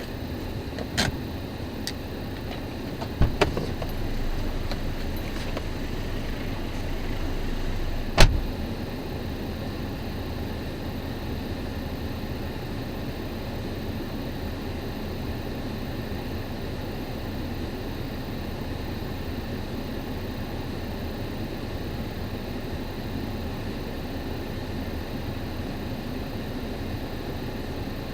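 Steady low rumble of a car on the move, with a few knocks and clicks in the first eight seconds, the loudest about eight seconds in.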